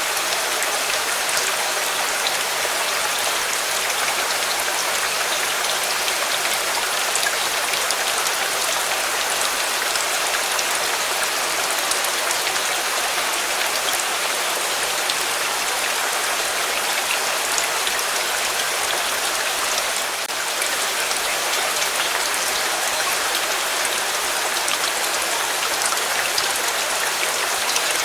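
Steady rain falling, an even hiss of drops with a few faint sharp ticks.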